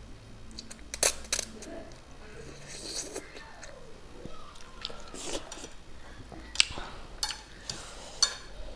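A person eating spicy instant ramen: chewing and mouth noises, with a few sharp clicks of utensils against the bowl.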